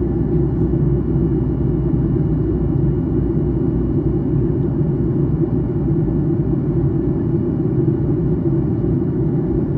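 Steady in-cabin roar of a Boeing 737-800 in descent: airflow and CFM56-7B engine noise heard as an even low rumble, with a faint steady high tone above it.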